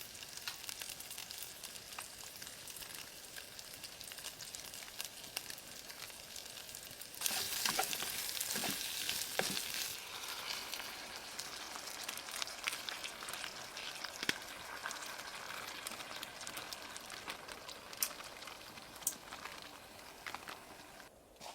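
Food sizzling and frying in a hot pan, a steady hiss with small pops, louder for about three seconds near the middle.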